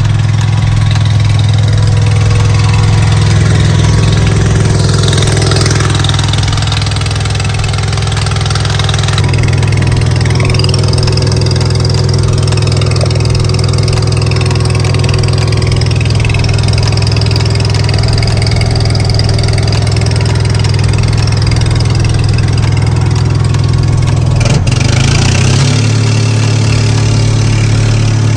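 Bobcat 732 skid steer's gasoline engine running steadily, with a brief change in its note about 25 seconds in.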